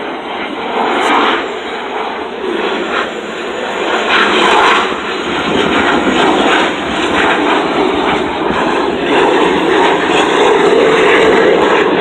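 Blue Angels F/A-18 jet passing overhead: a broad rushing engine noise that grows louder over the seconds.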